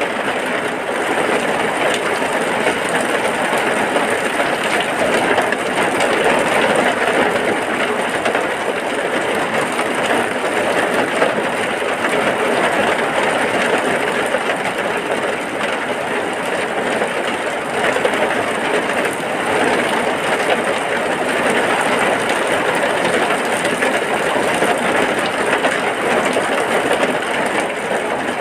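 Heavy rain falling steadily, an even, unbroken wash of noise with no separate drops or thunder standing out.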